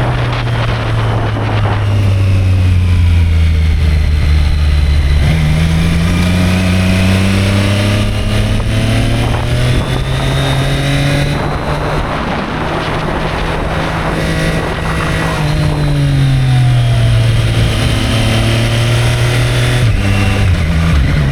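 Triumph Street Triple 765 R's inline-three engine under way while the bike is ridden, its pitch climbing slowly, then easing back about two-thirds of the way through, with a short step in pitch near the end. A steady rush of wind noise runs underneath.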